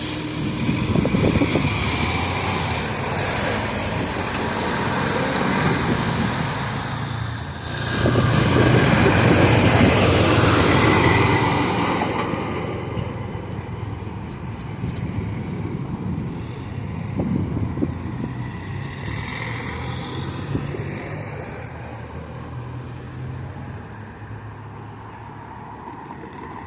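Road vehicles driving past one after another. The loudest pass comes about eight seconds in, then the sound slowly fades away.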